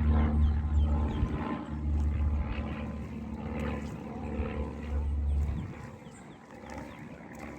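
Low, steady engine drone, like a passing aircraft, fading out about five and a half seconds in. Faint high chirps from birds run through it.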